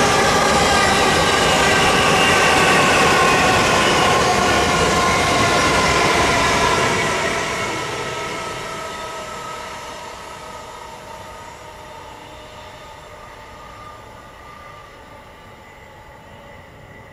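A train running past close by, loud for about the first seven seconds with a whine of several steady tones that slowly drop in pitch, then fading away steadily as it moves off.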